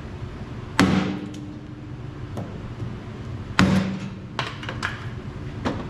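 Two hard metal hammer blows, about a second in and again nearly three seconds later, each leaving a short ringing tone, with lighter taps and clanks between. They come from rapping on a stuck piston of an Oliver 77 tractor engine to free it in its bore, the piston dry stuck after years of sitting.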